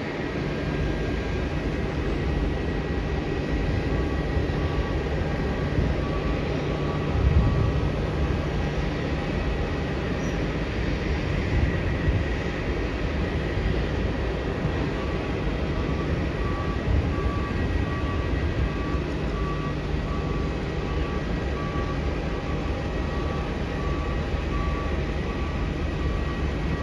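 Steady airport rumble of jet engines and traffic, with a faint high whine. A short electronic beep repeats about once a second for two long stretches.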